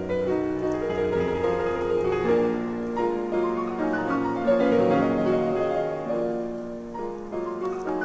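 Background piano music: a steady run of played notes with no other sound standing out.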